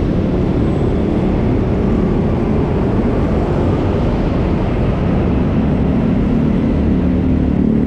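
Steady vehicle and road noise with a low rumble, an engine hum growing stronger near the end.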